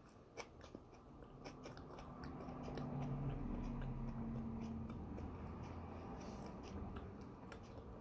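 A person biting into and chewing a bagel topped with chickpea salad, with small mouth clicks throughout. A low steady hum rises for about two seconds near the middle.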